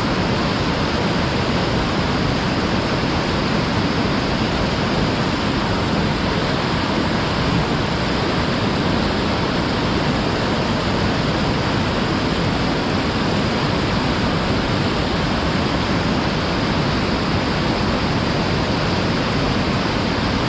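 Waterfall roaring steadily: falling water crashing into a river, an unbroken dense rush with no changes.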